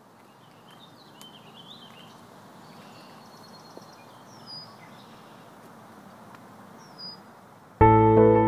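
Faint outdoor ambience, a steady hiss with scattered bird chirps and calls. Near the end, soft ambient music starts suddenly and much louder.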